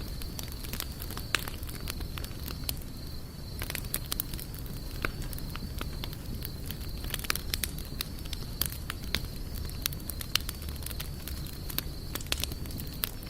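Wood campfire burning, with irregular sharp crackles and pops over a steady low rumble of flame. A thin steady high tone runs underneath.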